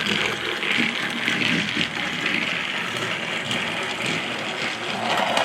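Toy vehicles running along a play-set track, a steady rattling whir of small wheels and motor.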